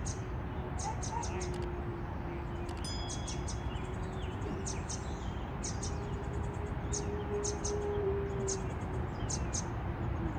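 Small birds chirping in short, high notes, several a second, over a low steady outdoor rumble.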